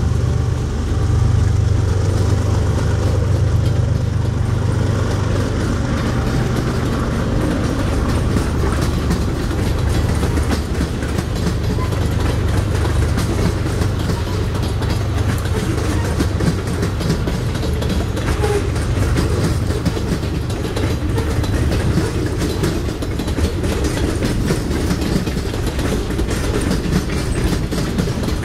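Freight cars of a mixed train rolling steadily past: a continuous rumble of steel wheels on rail with rapid clicking. A low drone fades out about six seconds in.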